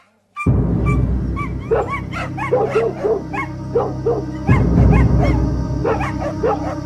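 Short, repeated animal calls, barking and yelping two or three times a second, over a low droning music bed; calls and drone start together suddenly about half a second in, and the drone swells midway through.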